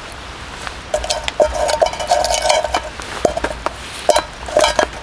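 Metal utensil clinking and scraping against metal camp cookware. A ringing tone lasts about two seconds a second in, and a quick run of sharp clinks comes near the end.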